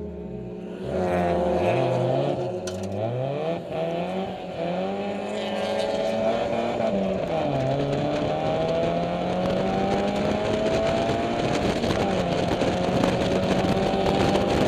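Mazda MX-5 race car's four-cylinder engine, heard from inside the open cockpit. Its revs fall at first, then rise and fall quickly several times. It then pulls hard, drops once at a gear change, and runs on under acceleration with slowly climbing revs.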